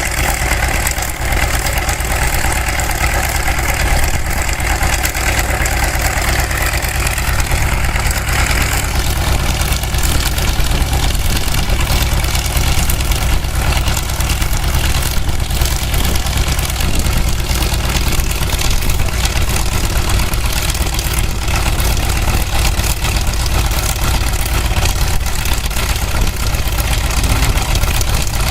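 Piston engines of a WWII warbird running steadily and loudly, with a change in tone about nine seconds in.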